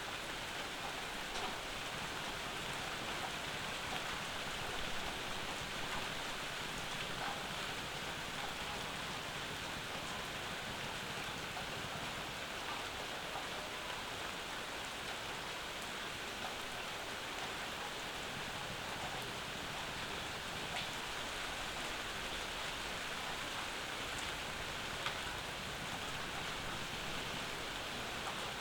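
Steady summer rain falling, with scattered drips and small drop ticks on nearby surfaces.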